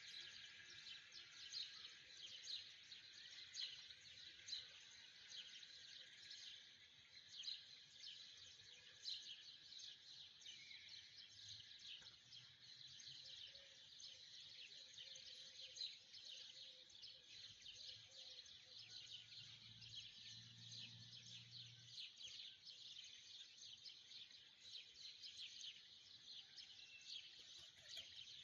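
Faint, dense chirping of many small birds, steady throughout.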